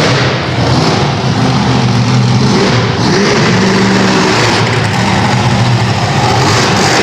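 Monster truck's 496-cubic-inch, 1,400-horsepower engine running loud, its pitch rising and falling as it is revved.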